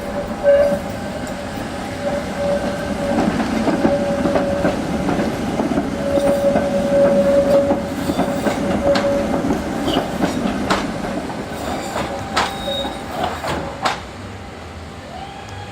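Tram running along its rails, getting louder towards the middle and then fading as it passes, with an on-and-off squealing tone from the wheels. Several sharp clicks in the last third as the wheels cross rail joints or points.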